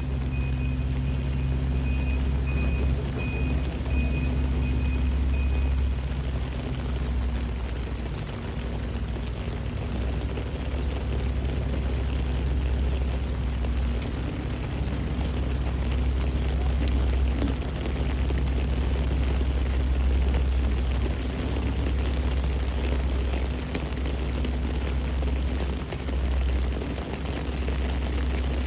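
Steady outdoor rumble with an even hiss, as of rain, under a low steady drone. During the first six seconds a high beep repeats at an even pace, then stops.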